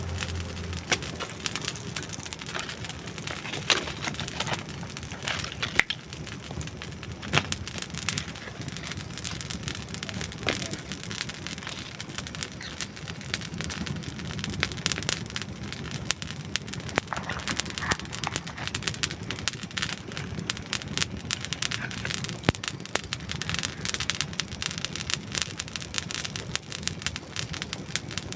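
Campfire of dry wood burning: a steady hiss dotted with frequent crackles and sharp pops, with a few louder snaps about 4, 6 and 7 seconds in.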